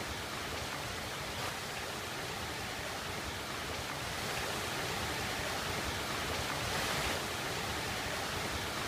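Floodwater rushing across the ground toward a culvert pipe: a steady, even rushing that grows a little louder in the second half.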